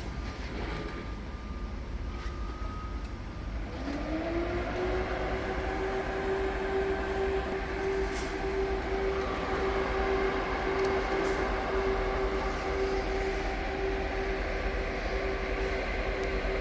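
A steady machine noise; about four seconds in, a whine rises in pitch and then holds steady.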